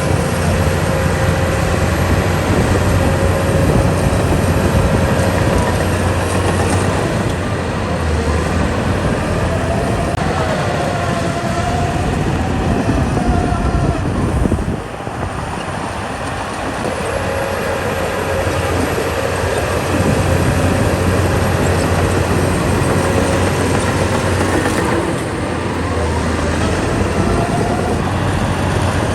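Heavy diesel earthmoving machinery running steadily, with a higher whine that wavers and rises through the middle. The engine eases off briefly about halfway through, then picks up again.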